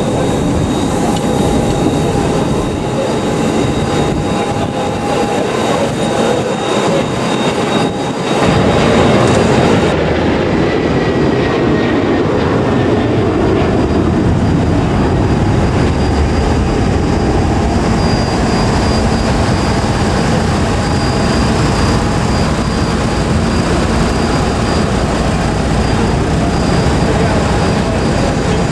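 Steady hum of an Airbus A320neo cabin, with a faint thin tone or two over it. About eight seconds in, the low rumble grows and the highest hiss drops away soon after.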